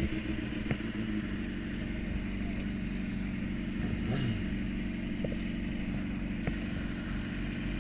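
Sport motorcycle engine running at a steady pitch.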